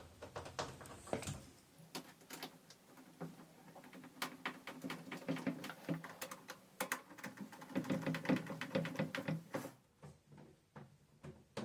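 Irregular light clicks and metal taps from a hand tool as bolts are screwed in with a Torx bit. The clicking is busiest in the middle and thins out near the end.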